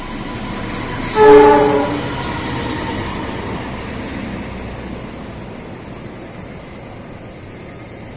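Train horn sounding one short blast about a second in, over the steady rumble of a train running on the rails, which slowly fades.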